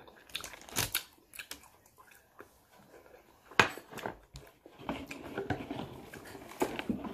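Chewing and biting into sauce-glazed fried chicken, with scattered crunches and clicks. The sharpest click comes a little over three and a half seconds in.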